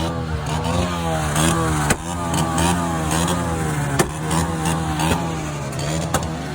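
Vehicle engine revved over and over, its pitch rising and falling in quick waves above a steady low hum, with a couple of sharp clicks.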